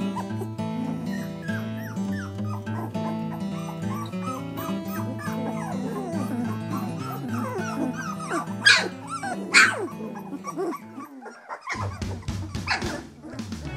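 German shorthaired pointer puppies whimpering and yipping in short high squeaks, with two louder yelps around nine seconds in, over background music.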